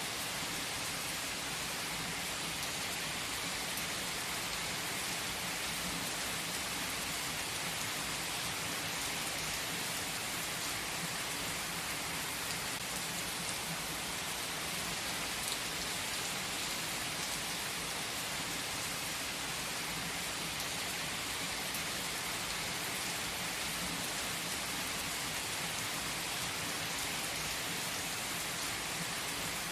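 Steady rain falling, an even, unbroken hiss with no thunder claps.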